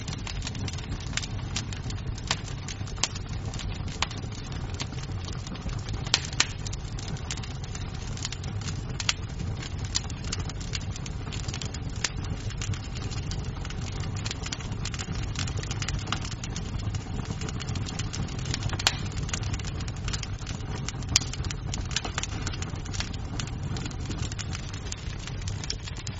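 Wood fire burning in a fireplace: a steady low roar of flames with irregular crackles and pops of burning wood, a few sharper snaps standing out.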